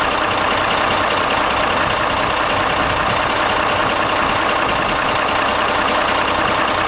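Mitsubishi Fuso Fighter truck's 7,540 cc intercooled turbo diesel engine idling steadily, a high-mileage engine with 628,000 km on it.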